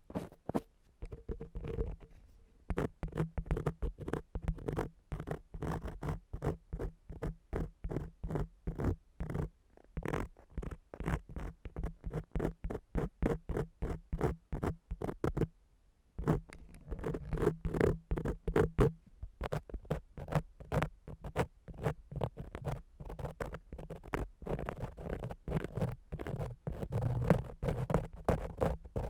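Ear-cleaning tool scratching and rubbing against a binaural microphone's ear in rapid strokes, several a second, with a brief pause about sixteen seconds in.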